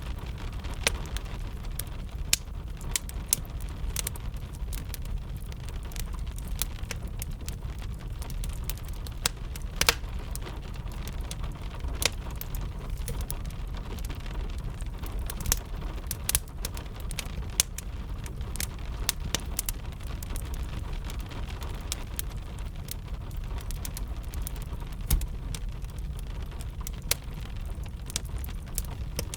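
Wood fire crackling, with irregular sharp pops and snaps several times a second, over a steady rush of rain.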